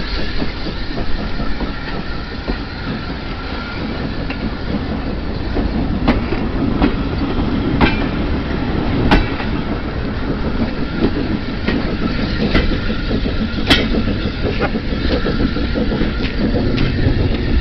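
Steam-hauled train of coaches and a brake van rolling past, its wheels clicking sharply over rail joints, most of the clicks in the second half.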